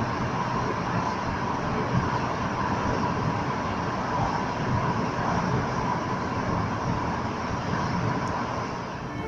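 Steady driving noise of a car on the road, the even rush of tyres and engine with no distinct events.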